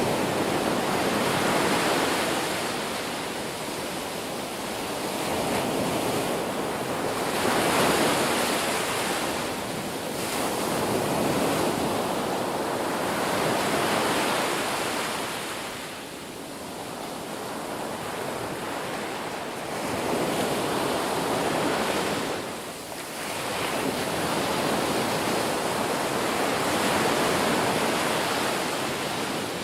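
Ocean waves breaking and washing on a shore, a steady roar of surf that swells and recedes every few seconds.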